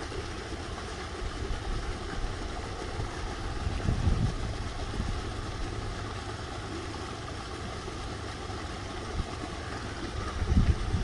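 Wind buffeting the microphone: a low, steady rumble that swells in gusts about four seconds in and again near the end.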